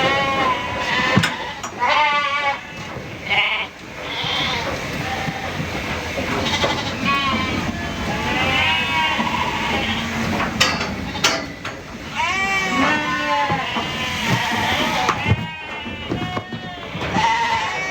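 Many sheep bleating, their calls overlapping and following one another continuously.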